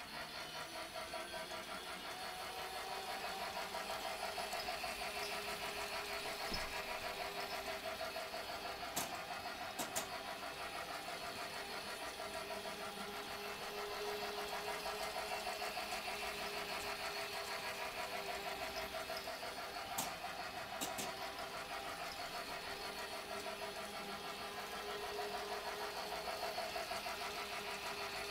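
Battery or electric toy train running on its track loop: a fast, steady motor whir and wheel rattle that swells and fades about every ten seconds as it circles, with a pair of sharp clicks about every eleven seconds.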